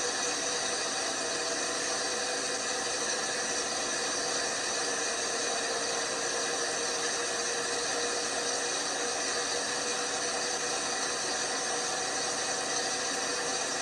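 LG washing machine running: a steady whir and hiss with a faint constant hum, no knocks.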